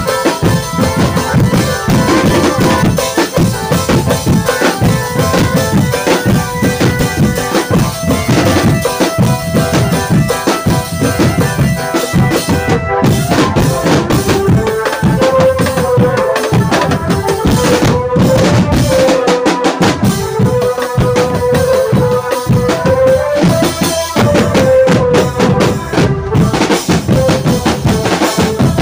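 Drum band playing: drums beating continuously under a melody line that wavers up and down in pitch from about halfway through.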